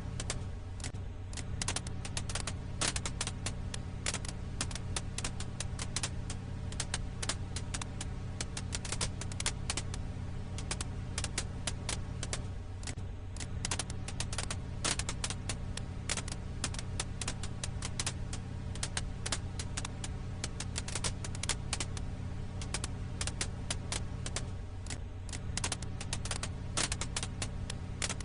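Firewood crackling: dense, irregular sharp pops and snaps over a steady low hum, the pattern seeming to repeat about every twelve seconds as a loop.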